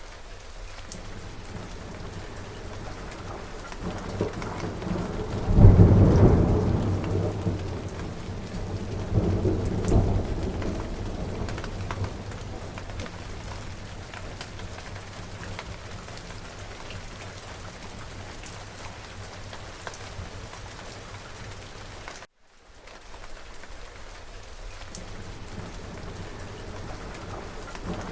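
Steady rain falling, with a thunderclap about five and a half seconds in that rolls on for a few seconds and a second rumble about four seconds later. Past the middle the sound cuts out for an instant and the rain starts again.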